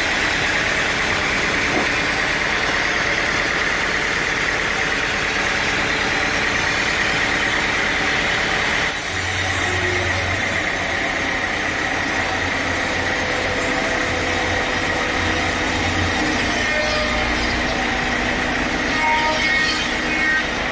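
Sawmill machinery running steadily, a loud continuous mechanical noise; about nine seconds in the sound changes abruptly and a low hum comes in.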